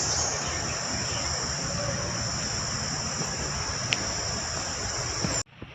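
Insects, crickets or cicadas, chirring steadily in one high continuous tone over an even background hiss; the sound cuts off abruptly near the end.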